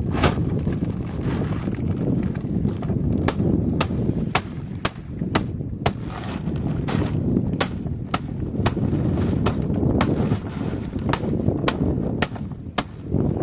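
A series of sharp, irregular clicks or knocks, about one or two a second, over a steady low rumble of a boat at sea and wind.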